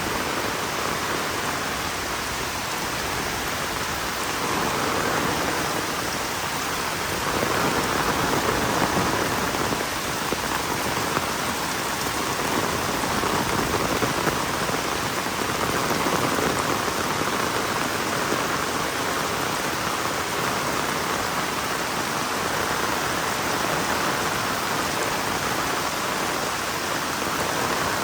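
Heavy rain falling steadily, a dense hiss that gently swells and eases every few seconds.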